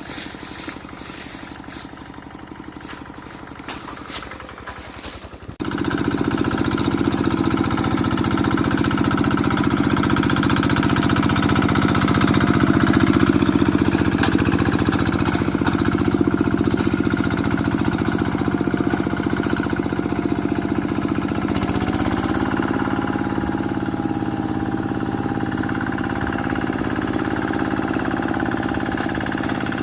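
Single-cylinder diesel engine of a Quick G1000 two-wheel hand tractor, running at a low idle with a quick, even beat. About five seconds in it is throttled up sharply and then runs loud and steady. Its pitch rises a little about two-thirds of the way through.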